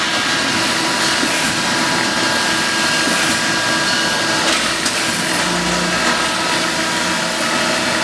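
Tube cut-off lathe running: steady machine noise with several high steady tones and occasional faint clicks. A low hum swells briefly about two-thirds of the way in.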